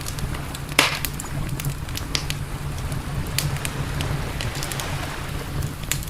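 Wood campfire crackling, with frequent small snaps and one loud pop about a second in, over a steady low rumble.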